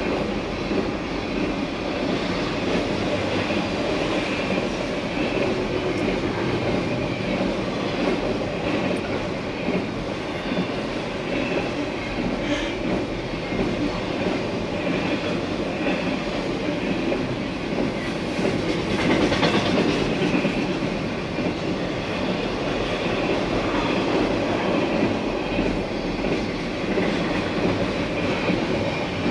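Double-stack intermodal freight train's well cars rolling past at speed, a steady noise of steel wheels on the rails that runs on without a break and grows a little louder about two-thirds of the way through.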